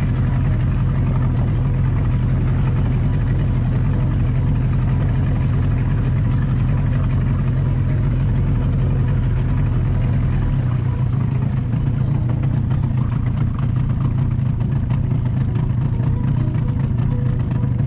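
Boat engine running steadily, a constant low drone; about ten seconds in the deepest part of the hum drops away while the engine carries on.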